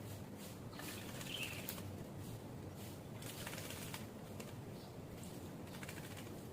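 Pied starling bathing, flapping its wings in the water in repeated short bursts of splashing and fluttering, with a brief high call about a second and a half in.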